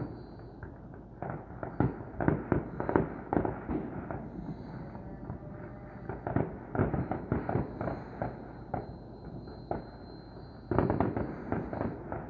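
Distant fireworks going off in rapid strings of pops and cracks that come in clusters, with a denser burst of crackling near the end.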